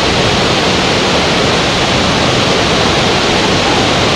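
Steady, loud rushing noise with no let-up.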